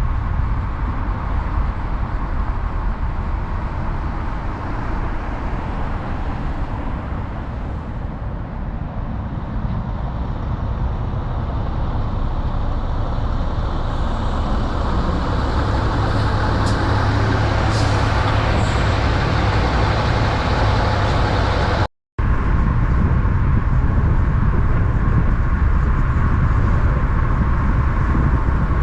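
Heavy truck traffic: big-rig engines and tyre noise running steadily, growing louder toward the middle as a truck nears. A brief total drop-out comes about three-quarters of the way through.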